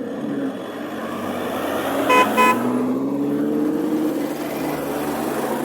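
A car horn gives two short toots about two seconds in, over a car engine running with a slowly rising pitch and street traffic.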